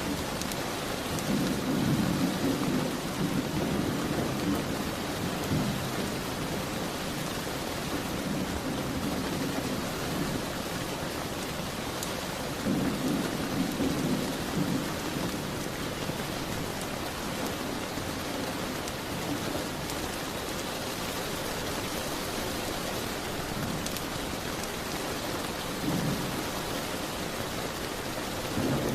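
Steady rain, with low rolls of thunder swelling up and fading away, first about a second in, again in the middle, and briefly near the end.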